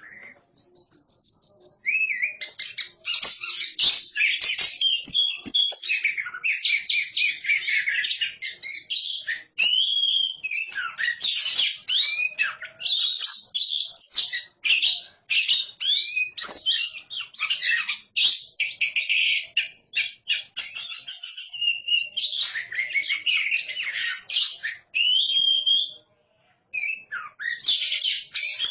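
A pair of oriental magpie-robins singing against each other: loud, varied song of clear whistles, slurred glides and fast chattering phrases, nearly continuous from about two seconds in, with one short pause near the end.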